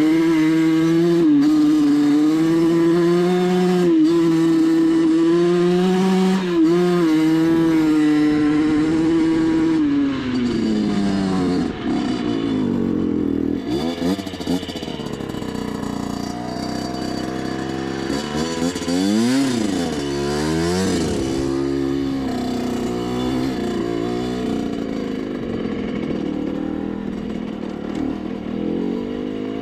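Rieju MRT 50's 50cc two-stroke dirt-bike engine held at high revs for about ten seconds, then dropping off and revving up and down several times.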